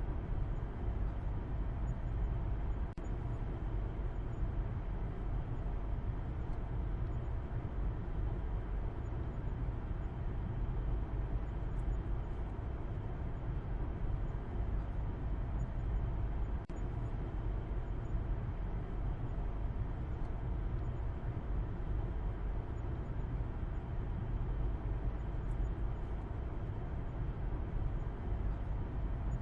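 A car being driven, giving a steady, even rumble of engine and road noise that is strongest in the low bass.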